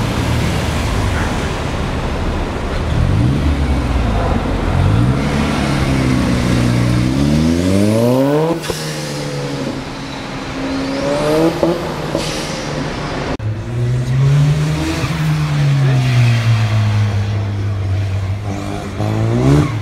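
Vuhl 05 sports car's Ford four-cylinder engine revving hard as it accelerates. The pitch climbs through the gears and falls back several times, with sudden changes about 8 and 13 seconds in.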